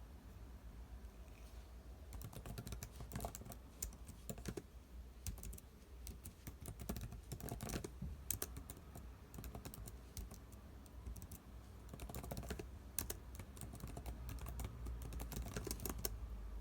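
Typing on a computer keyboard: irregular runs of key clicks that start about two seconds in, with a short lull around the middle. A steady low hum runs underneath.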